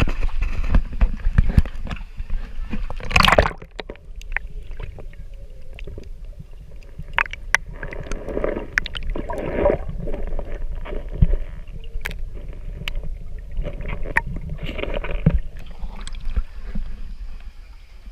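Tour boat under way: a low steady engine rumble with water splashing and gurgling along the hull, and a loud rushing splash about three seconds in.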